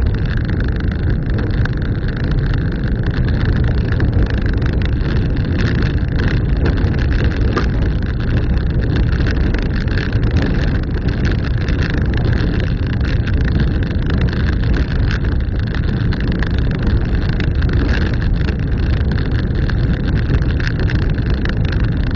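Car driving on a dirt road: a steady, loud rumble of engine and tyres on the unsealed surface, with no let-up.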